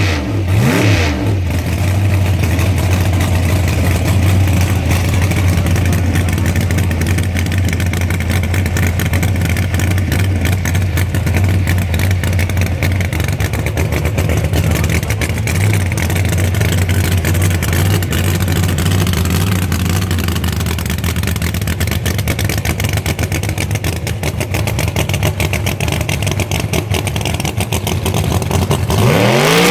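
Drag car's engine idling loudly and steadily, blipped up and down in the first second and revved up again near the end.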